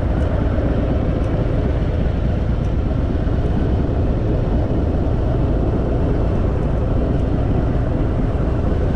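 Harley-Davidson Fat Boy V-twin engine running steadily as the motorcycle rides along.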